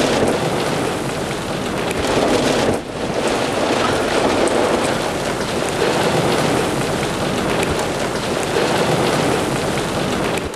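Heavy rain pouring in a tornadic thunderstorm, a loud, steady, dense rush that dips briefly about three seconds in.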